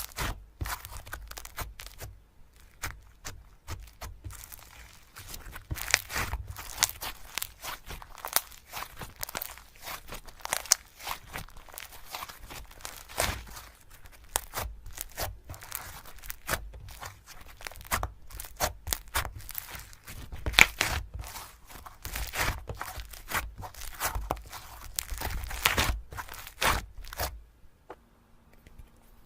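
Slime being handled, stretched and squished by hand: a dense run of crackling pops and tearing sounds that stops about a second before the end.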